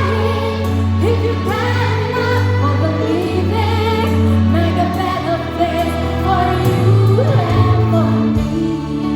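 Children's choir singing a slow song over instrumental accompaniment with long, held bass notes.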